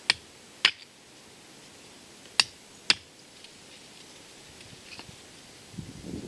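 Metal tent pegs clicking against each other as they are handled: four sharp light clicks in two pairs, each pair about half a second apart, with rustling near the end.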